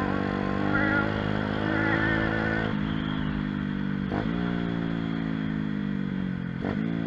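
Pit bike's small single-cylinder engine running while riding. Its note drops a few seconds in, then two short rev blips each fall away into slowly dropping revs.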